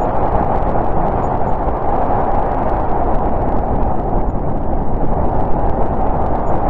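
Snowstorm wind blowing steadily: a dense, even rush of noise strongest in the middle range, with a low rumble beneath.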